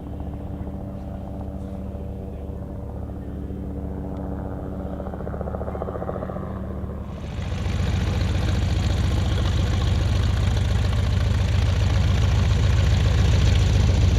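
Propeller aircraft piston engines running steadily. About seven seconds in, the sound jumps suddenly to a much louder, rushing noise that stays steady.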